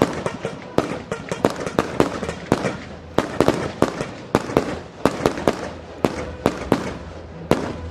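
Fireworks display: a rapid, irregular barrage of sharp aerial-shell bangs, about three a second, each with a short echo.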